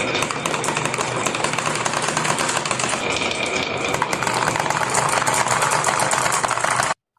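Many marbles rattling and clattering down a marble run track, a dense, steady stream of rapid clicks that cuts off abruptly near the end.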